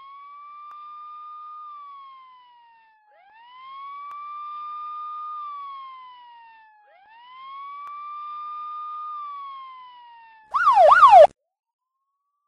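Electronic police siren sounding a slow wail: three rise-and-fall cycles of about four seconds each. Near the end comes a short, louder burst of rapid up-and-down yelps that cuts off suddenly.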